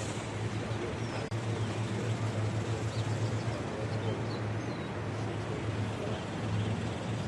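A steady low hum, like an idling engine or motor, under outdoor background noise, with a few faint bird chirps.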